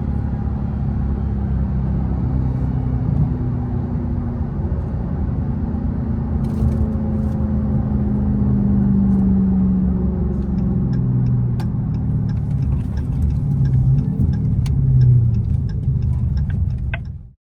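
2023 Dodge Charger Hellcat's supercharged 6.2-litre V8 running through a mid-muffler-delete exhaust: a steady deep rumble with the engine speed slowly rising and falling. It cuts off abruptly near the end.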